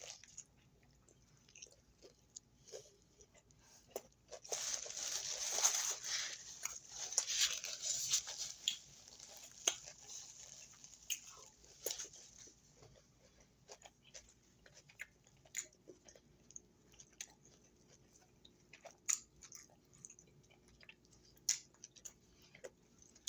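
A person eating crunchy food: a dense run of crunching and chewing about four seconds in, then scattered smaller crunches and clicks.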